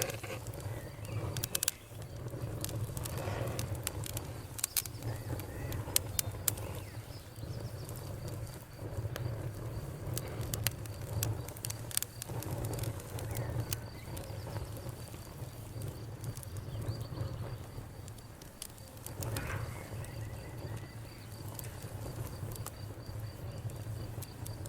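Crackling fire: a steady low rumble of burning, with frequent sharp pops and snaps at irregular moments, some loud.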